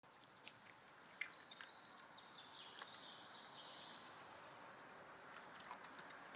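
Quiet outdoor ambience: faint bird chirping through the middle of the clip over a low hiss, with a few soft clicks.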